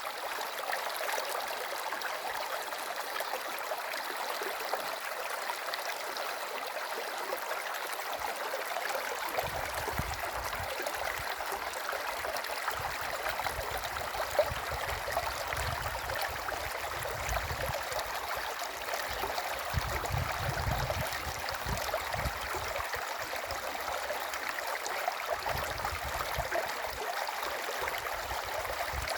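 A stream flowing: steady rushing, babbling water. From about nine seconds in, irregular low rumbles come and go under it.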